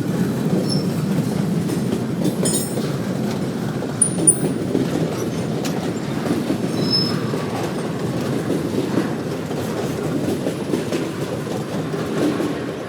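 Freight train cars rolling past in a steady rumble of wheels on rail, with a few short, high wheel squeaks.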